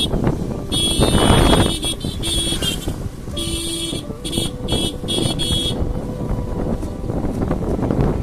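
Vehicle horn sounding in a high-pitched pattern: one long toot, then a shorter one, then a quick run of short toots, over the steady rumble of the moving vehicle and road noise.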